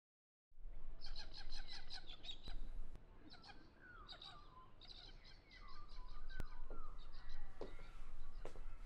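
Birds chirping and singing: at first a quick run of repeated chirps, then rising and falling whistled phrases, starting about half a second in after silence.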